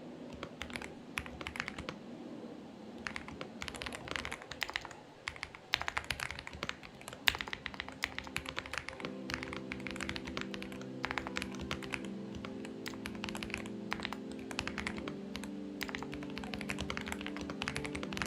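Typing on a Xinmeng X98 mechanical keyboard: irregular runs of keystrokes with brief pauses between bursts.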